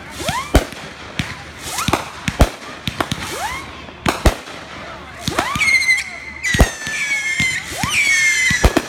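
Fireworks going off: sharp bangs of bursting shells about every two seconds, each led by a short rising whistle. From about halfway in, whistling fireworks give a run of long, shrill whistles, each dipping slightly in pitch.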